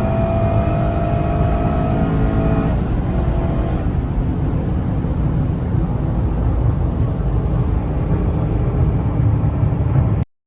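The Cadillac CTS-V's supercharged V8 and road noise while driving, steady and heavy in the low end. A thin whine rises slowly in pitch for the first few seconds, then drops out. The sound cuts off abruptly near the end.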